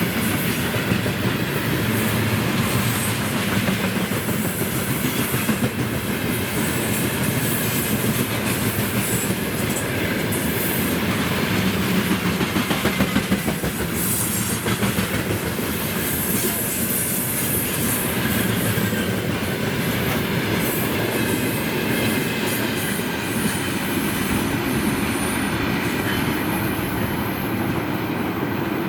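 Freight train of open gondola wagons rolling past: a steady rumble of steel wheels on rail, with clicks and clattering over the rail joints. There is a run of regular wheel beats about halfway through.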